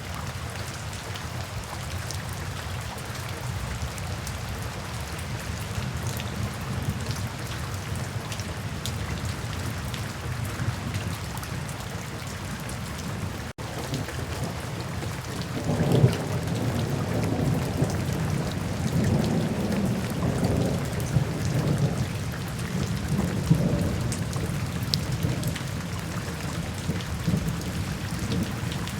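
Steady rain falling, an even hiss of drops. About halfway through the sound cuts out for an instant, and from a couple of seconds later low rolling thunder rumbles in, rising and falling.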